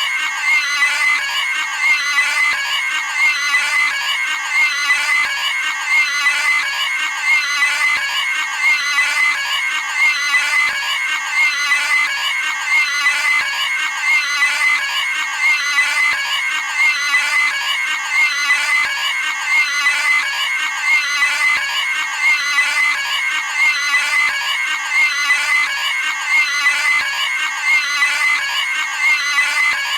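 Cartoon pig squealing: the same short, high-pitched scream repeats over and over at an even pace, about once a second.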